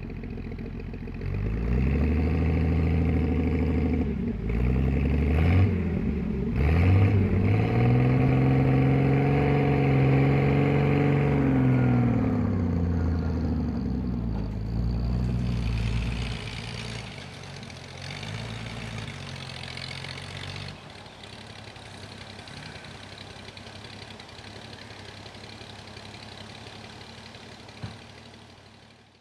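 Old 1938 GMC truck engine running and revving, its pitch rising and falling several times, then dropping away after about the halfway mark to a fainter steady sound.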